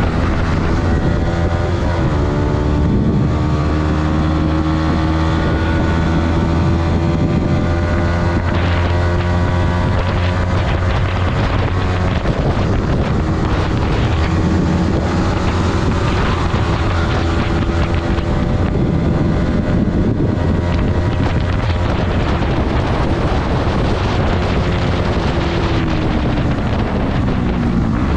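Yamaha MT-15's single-cylinder engine running under way, its pitch drifting with the throttle and falling near the end, with wind rushing over the microphone.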